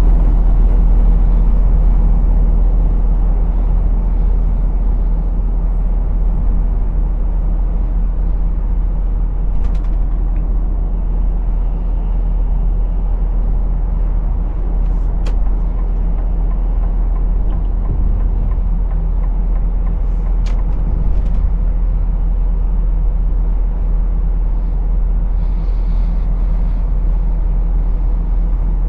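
Diesel lorry engine running steadily with a deep low rumble while driving, with a few brief sharp clicks.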